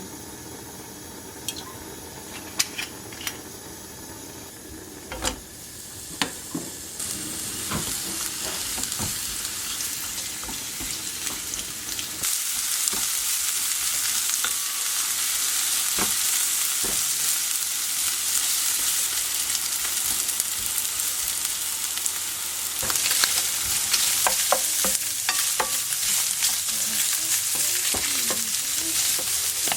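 Food sizzling in a frying pan. The sizzle builds up about seven seconds in and gets louder from about twelve seconds, with occasional sharp clicks and knocks.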